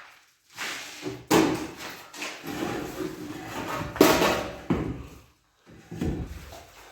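Hand tools knocking and scraping on fireplace masonry: about six sudden strokes, the sharpest about a second and a quarter in and at four seconds, each trailing off briefly.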